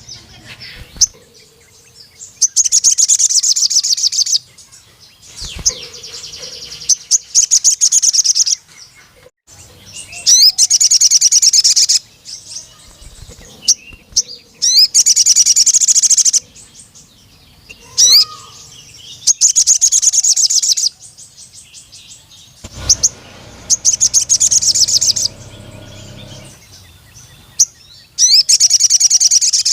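Male sogon sunbird singing: repeated bursts of rapid, high-pitched chirping trills, each about two seconds long, every three to four seconds. It is the long, full song that keepers call gacor, used to call out rival males.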